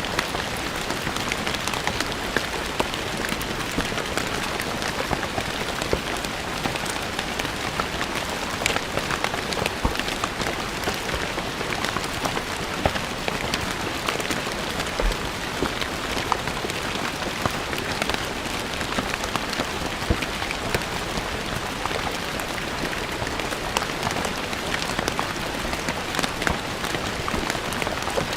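Steady rain falling on stone paving, a dense even patter with many individual drops striking the stone.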